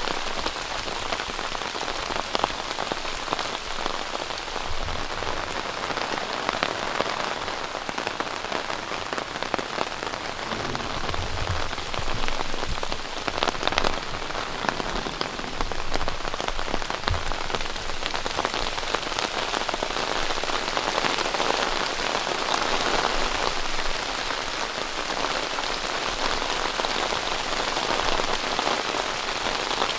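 Heavy rain from a thunderstorm falling steadily on a tent, a dense patter of drops.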